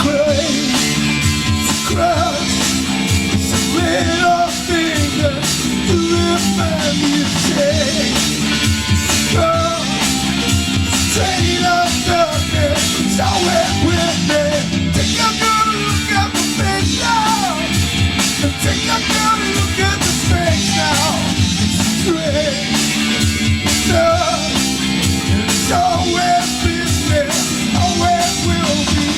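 Rock music with drums, electric guitar and a sung or lead melody line.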